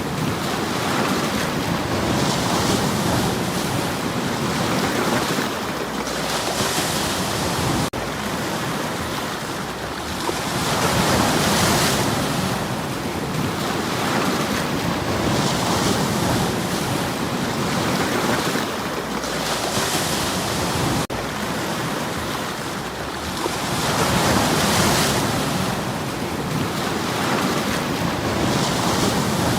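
Sea waves washing in over a stony shore: continuous surf with a hissing wash that swells and eases every few seconds.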